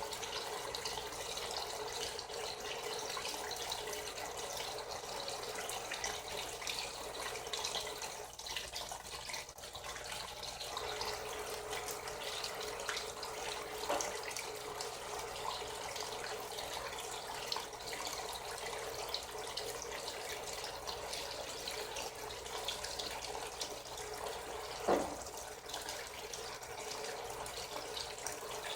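Frigidaire Gallery Series top-loading washing machine filling its tub with water, a steady rush of water. Two brief knocks come through, one about halfway through and a louder one near the end.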